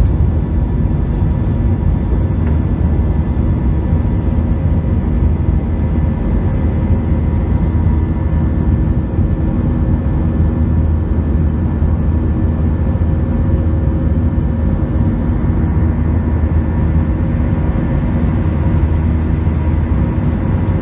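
Steady cabin noise of an Airbus A321-200 in flight: a loud, even low rumble of engines and airflow, with a faint steady whine above it.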